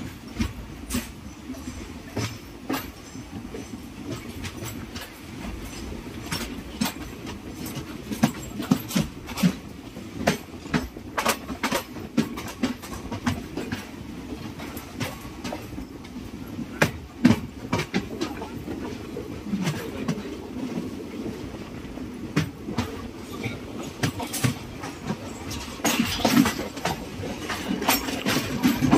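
Express train running on the track: a steady low rumble with wheels clattering over rail joints in sharp, irregular clicks, growing louder near the end.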